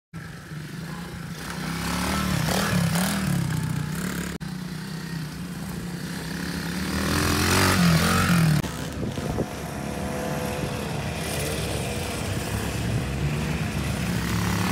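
Pit bike's small single-cylinder engine running and revving as it rides, the note rising and falling with the throttle; loudest about eight seconds in, then easing back to a steadier drone.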